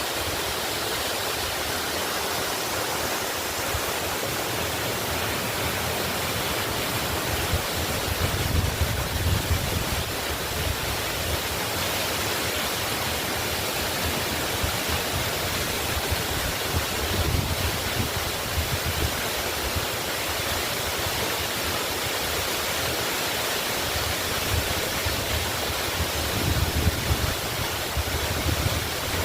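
Waterfall pouring steadily, a constant rush of falling water with a few deeper low rumbling swells.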